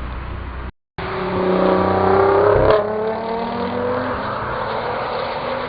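Ferrari 458 with a Prior Design kit, its V8 accelerating: the engine note climbs for about two seconds, breaks sharply about halfway through, then carries on at a lower pitch.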